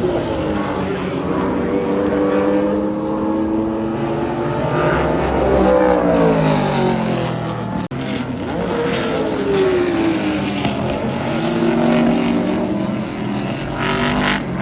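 Historic IMSA GT-era race car engines running at speed as cars pass, their pitch rising and falling several times. There is a brief break in the sound about eight seconds in.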